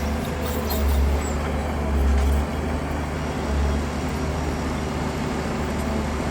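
Heavy diesel machinery running with a steady low rumble that swells and eases a few times.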